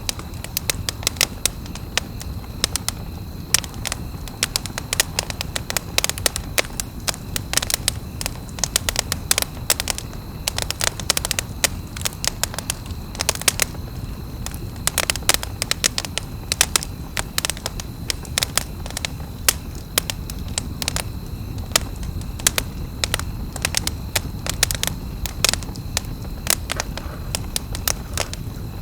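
Wood campfire crackling, with many irregular sharp pops and snaps over a steady low hiss of the burning fire.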